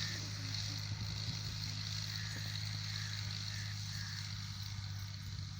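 Fiat tractor's diesel engine running at a steady, even drone while working a field leveler.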